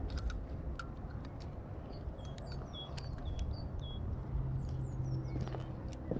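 A bird calling: a run of short high chirps about two seconds in, then a few quick falling notes, over low wind rumble and scattered clicks. A low steady hum starts about four seconds in.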